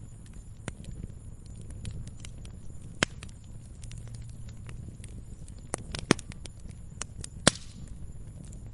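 Wood fire crackling in a fireplace: a steady low rumble of flame with scattered sharp pops, the loudest about three seconds in, twice near six seconds and once at about seven and a half seconds.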